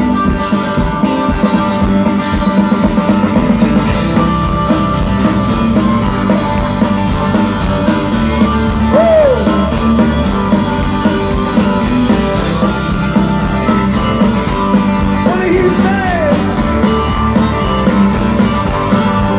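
Live band playing an instrumental break of a pop-rock song with a steady beat.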